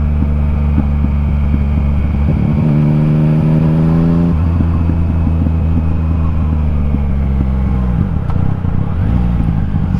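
Yamaha MT-09's inline three-cylinder engine with an Akrapovic exhaust running on the overrun downhill, the steady engine note peppered with rapid exhaust pops and crackles, the sign of the descent holding the revs up with the throttle closed. The note steps up briefly about two to four seconds in, and the revs fall away near eight seconds.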